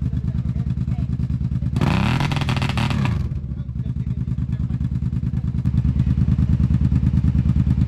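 ATV engine idling with a steady pulse. About two seconds in it revs briefly, rising then falling in pitch, with a loud rushing hiss that lasts about a second and a half.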